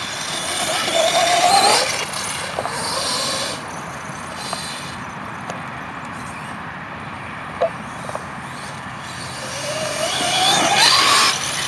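HPI Savage Flux RC truck's brushless electric motor whining up in pitch as it accelerates, twice: about a second in and again near the end, with a single sharp knock in the middle.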